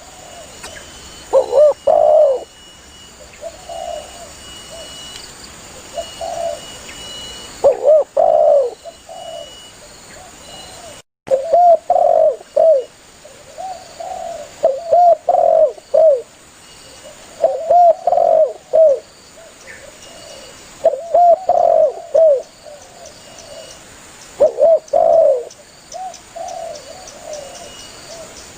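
Spotted dove (tekukur) cooing to call others of its kind: loud phrases of two to four short, mellow coos repeat every two to three seconds, with fainter coos in between. The sound cuts out completely for a split second about eleven seconds in.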